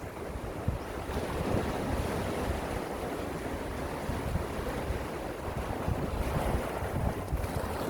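Gentle sea waves washing steadily, swelling slightly about a second and a half in and again around six seconds, with wind rumbling on the microphone.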